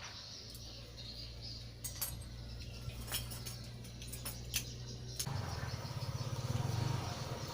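Steady low motor hum with scattered sharp clicks; about five seconds in it changes to a louder, fast pulsing rumble.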